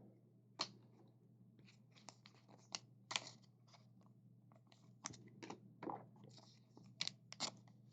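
Faint scattered clicks and light slides of trading cards being handled and sorted, over a steady low hum.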